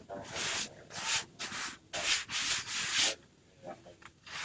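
Something rubbed in quick back-and-forth strokes across a surface, about six strokes in three seconds, then a pause.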